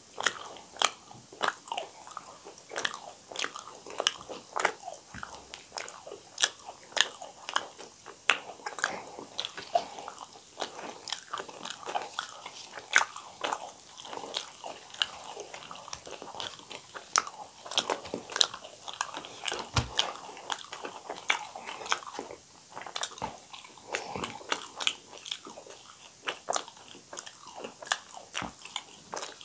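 Close-up chewing and biting as two people eat fried poori, with many sharp crackling crunches, several a second.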